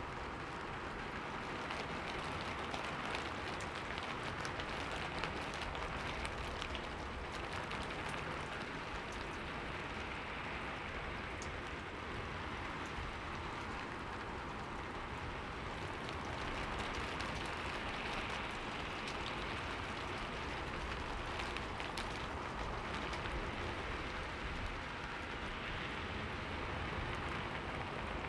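Steady rain on a window pane, an even hiss with scattered individual drops ticking.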